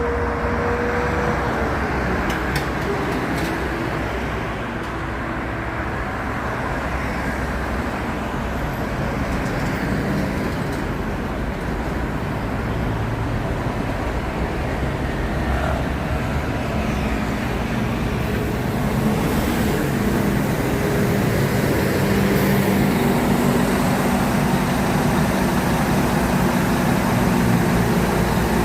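Scania K230UB city bus running on the road, its Scania DC9 five-cylinder diesel engine and ZF Ecomat automatic gearbox giving a steady low rumble. Its tones shift in pitch several times and it grows a little louder in the second half as the bus pulls along.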